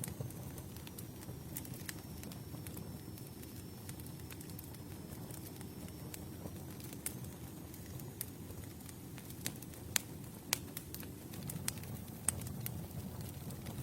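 Campfire burning with a steady low rumble and irregular wood crackles and pops, a few sharper snaps in the second half. A faint, thin high whistle runs for the first several seconds.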